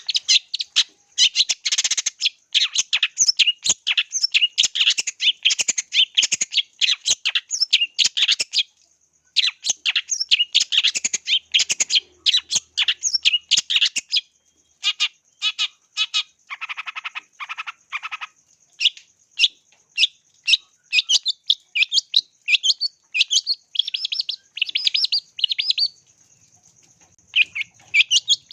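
Long-tailed shrike (cendet) singing a fast, varied song of rapid chattering and whistled notes, broken by a few short pauses. Near the middle there is a harsher, rasping stretch.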